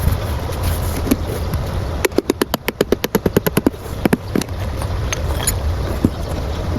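A pigeon's wings flapping, a quick run of sharp claps about ten a second for under two seconds, then a few single claps, over steady wind rumble on the microphone.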